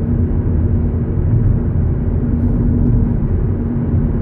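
Steady low rumble of a car's engine and tyres while driving, heard from inside the cabin, with a faint steady hum.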